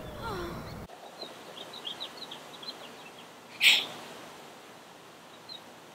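Small birds chirping in short, faint calls, with one sudden loud hiss-like burst about two-thirds of the way through. The tail of a sung melody cuts off about a second in.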